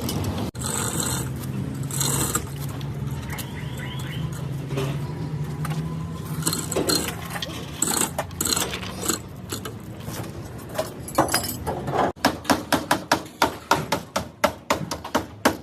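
Workshop sounds: a steady low machine hum with scattered metallic clinks, then, after a cut, a run of rapid hammer strikes, about three a second.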